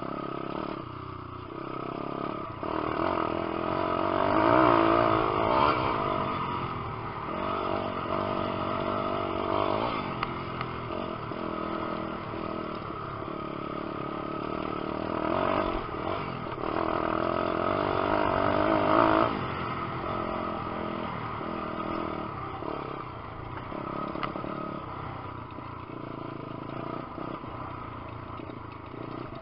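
Lifan 150cc single-cylinder four-stroke pit bike engine being ridden hard, engine speed rising and falling with the throttle. It climbs to its loudest twice, about five seconds in and again just before twenty seconds, where it drops off sharply.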